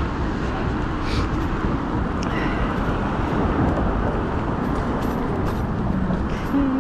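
Steady noise of city road traffic, a continuous low rumble with no single event standing out, heard from a moving bicycle.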